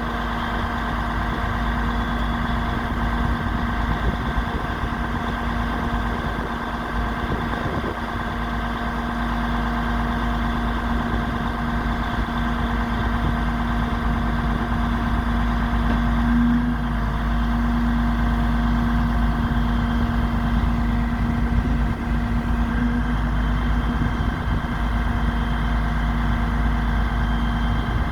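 DAF XF105.510 truck's PACCAR MX straight-six diesel running steadily at idle, with a strong steady hum.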